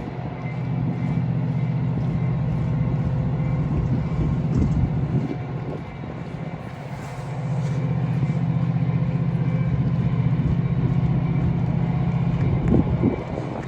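Heavy engine running with a steady low rumble that eases for a moment about six seconds in and then comes back, with a few short knocks near the end.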